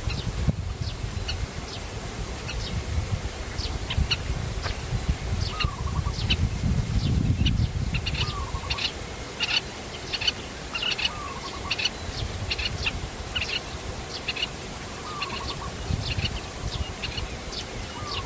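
Birds calling at a lake: many short, high chirps in quick series, with a lower, short downward-slurred call repeated about every two and a half seconds, over a steady low rumble.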